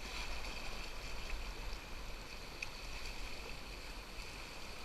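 Steady rush of flowing river water around a canoe, with a low rumble underneath and a few faint ticks.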